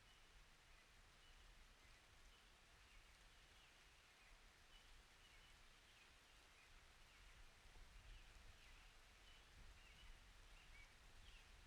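Near silence: a faint soft hiss of outdoor ambience with scattered faint high bird chirps.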